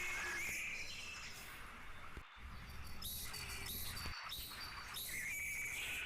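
Bird chirps: short, flat whistled notes repeated over a steady background hiss, briefly cut off twice.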